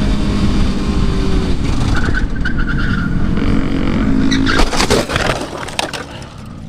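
Vehicle engine running steadily under heavy road and wind noise, with a short burst of knocks and rattles about four and a half seconds in, after which the engine sound eases off.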